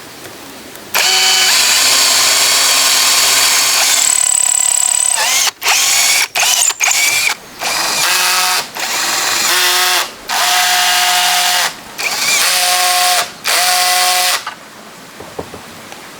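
Electric power drill running in trigger bursts: one long run of about four seconds, a few quick blips, then several runs of one to two seconds each.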